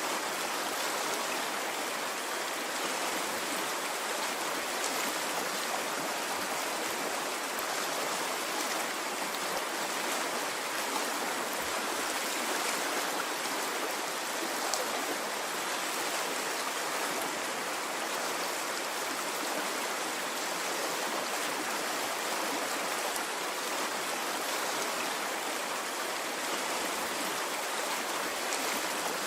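A stream of running water, flowing steadily and evenly.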